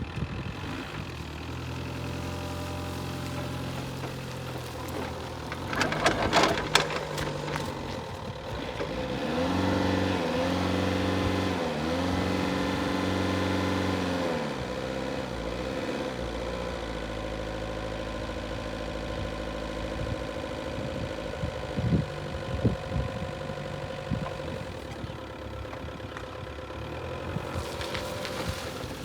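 Linde H35D diesel forklift engine running at idle. Its speed rises for about five seconds near the middle, with the pitch dipping and recovering, then settles back to idle. Short clanks and knocks come about six seconds in and again around twenty-two seconds.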